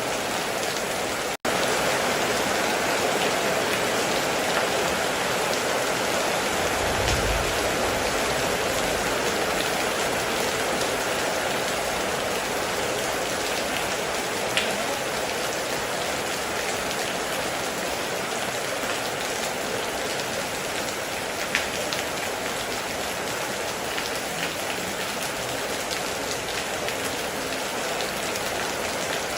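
Heavy, steady rain pouring down, with a few louder single drop hits. The sound cuts out for a split second about a second and a half in, and a short low rumble comes through around seven seconds in.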